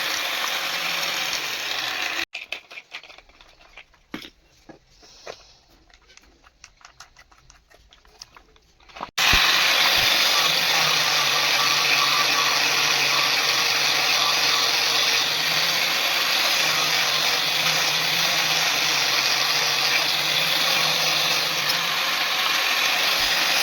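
Electric power tool running steadily with a dense, hissing noise. It stops abruptly about two seconds in, leaving a few seconds of faint scattered clicks, then starts again near the nine-second mark and runs steadily.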